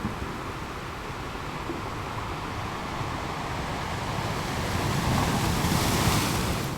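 Ocean waves rolling in: a steady surf rumble that swells into a breaking wave with a bright hiss near the end, then drops off suddenly.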